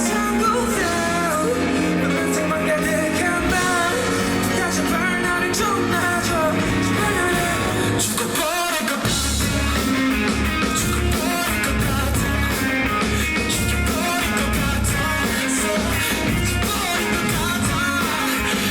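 Live rock band playing a song, with a singing voice and electric guitar over bass. About eight seconds in the low end drops out briefly, then the band comes back in with heavier bass.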